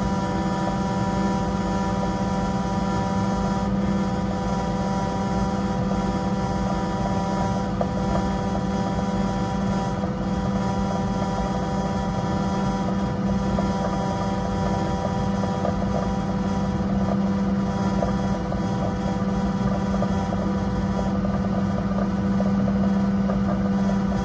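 Carrier ultra-low NOx gas furnace running while fired, a steady machine hum with one strong low tone over an even rushing noise.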